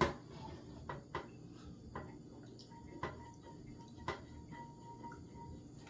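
Faint, scattered ticks and small pops from a saucepan of butter and apple cider vinegar warming on a camping stove, over a low steady hum.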